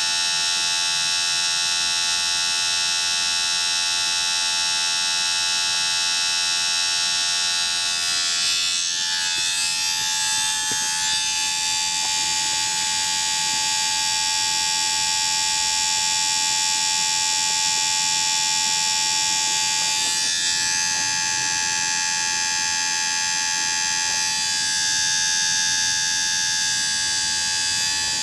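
Small electric motor running with a steady high-pitched whine, its tone shifting about a third of the way in and again about two-thirds of the way through.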